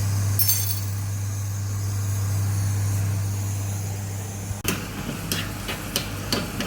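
A steady low mechanical hum, with a brief clink about half a second in. About four and a half seconds in the sound cuts, and a spoon starts scraping and tapping against a pan of frying food, several sharp strokes about half a second apart.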